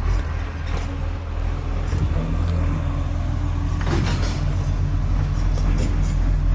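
Garbage truck engine running with a steady low rumble, with a short burst of noise about four seconds in.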